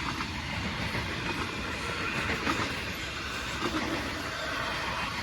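Freight train rolling past, its cars' steel wheels running on the rails in a steady rumble.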